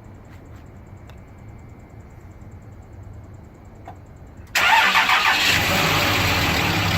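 2006 Dodge Ram 3500's 5.9-litre Cummins straight-six turbo diesel on a cold start, with the block at about 22°F. After a faint low rumble, the engine fires suddenly about four and a half seconds in and runs on loudly and steadily at idle.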